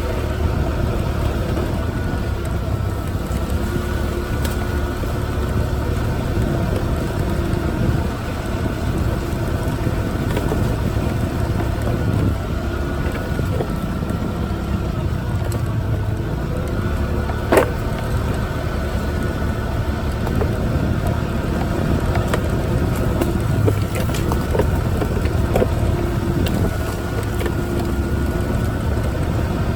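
Small moped engine running at a steady speed under way, a steady hum over a low rumble. One sharp click a little over halfway through.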